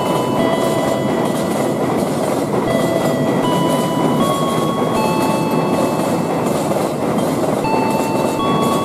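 A train running on the rails: a steady, loud rumble and clatter. Over it plays a short repeating tune of clear held notes.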